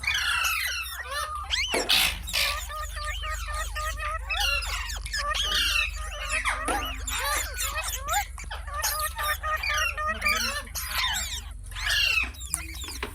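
Parrot calls: a dense run of quick chattering squawks and whistles, rising and falling in pitch without a break.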